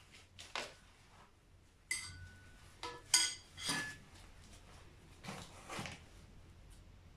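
Metal parts and tools clinking and knocking together as they are handled, a string of separate clinks. A few of them ring briefly, the loudest about three seconds in.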